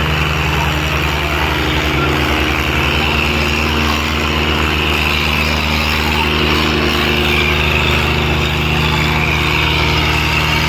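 Diesel tractor engine running steadily at constant speed, loud and close.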